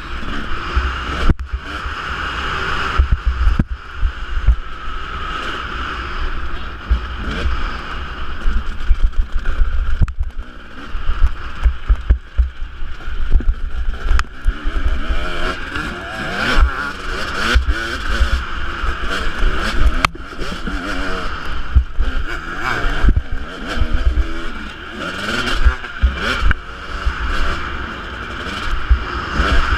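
Husqvarna 250 two-stroke motocross bike engine running under way, its revs rising and falling, with wind buffeting the microphone.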